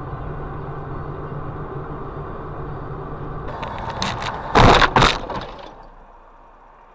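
Steady car engine and road noise, then a collision: two loud bangs about half a second apart a little past halfway, after which the running noise falls away.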